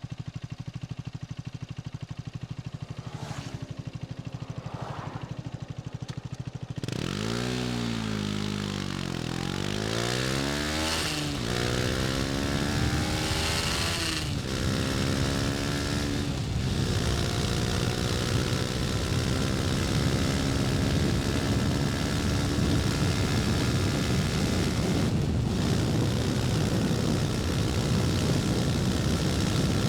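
KTM 250 Duke's single-cylinder engine idling with a steady pulse, then revving up about seven seconds in and pulling away. It climbs through the gears, with a short dip in revs at each of several upshifts, and wind noise builds as speed rises.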